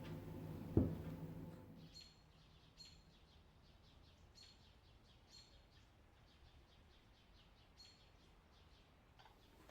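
A steady low hum with a single knock about a second in; the hum stops before two seconds, leaving faint, short, high bird chirps repeated at irregular intervals.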